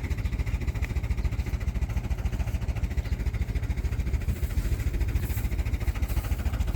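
Small engine running steadily, with a fast, even low putter.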